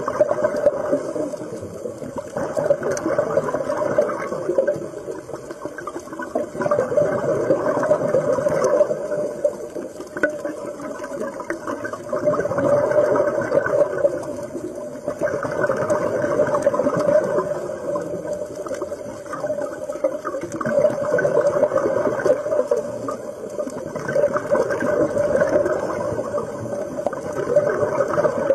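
Running water: a steady rushing and gurgling that swells and eases every few seconds.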